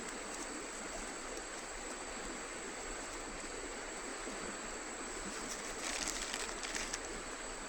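River water flowing steadily, with a few brief high-pitched sounds in the last two seconds.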